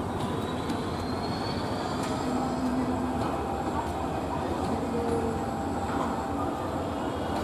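Local commuter train rolling into the station, a steady rumble of its carriages on the track with a few faint brief tones.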